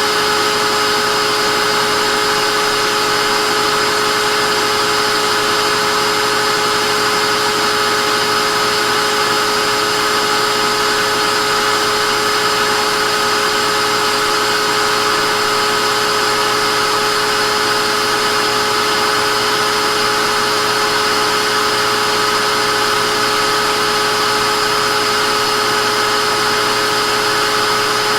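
Vacuum cleaner running steadily: an even motor whine with a few fixed tones over a rush of airflow, unchanging throughout.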